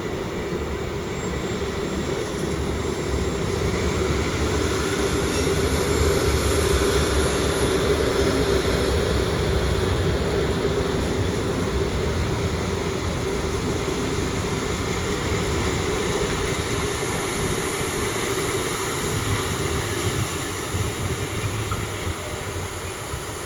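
Electric train running past with a steady hum, swelling over the first several seconds, then slowly fading away.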